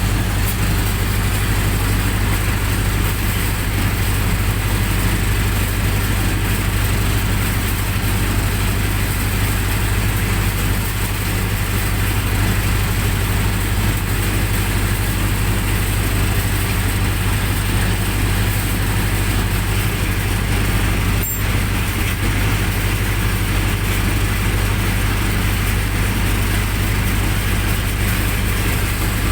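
Generator set engine running steadily at constant speed, with one brief click about 21 seconds in.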